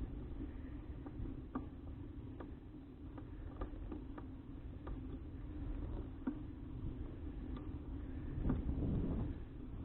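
Bicycle riding on a road, heard from a bike-mounted action camera: steady rumble of tyres and wind on the microphone with a faint hum, and light clicks about once or twice a second. A gust of wind swells briefly near the end.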